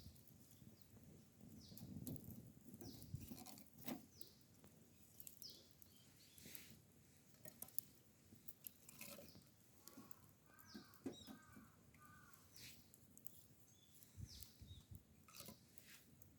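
Faint bird chirps, short downward-sliding notes repeated throughout, with a quick run of repeated calls about two-thirds of the way in, and scattered small clicks.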